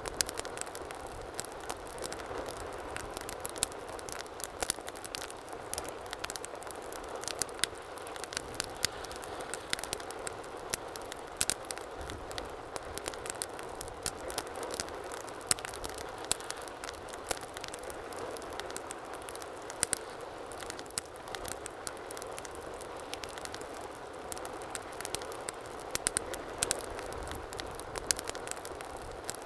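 Wood fire burning in a fireplace, crackling continuously with frequent sharp pops over a steady low rush of the flames.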